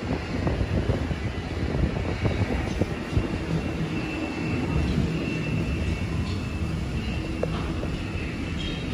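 Sydney Trains double-deck electric train pulling away from the platform: a steady rumble of wheels and traction motors that slowly eases as the train moves off.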